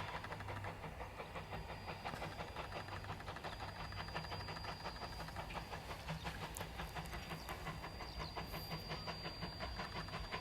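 Steam train hauled by K 88, an 1870s Rogers-built steam locomotive, running along with a rapid, even beat.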